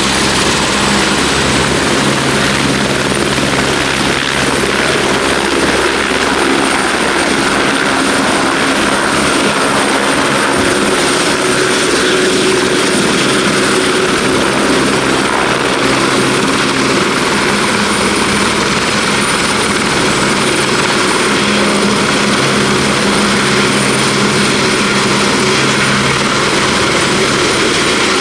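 Turbine helicopter running steadily close by, its rotor and engine noise continuous, with a thin high turbine whine.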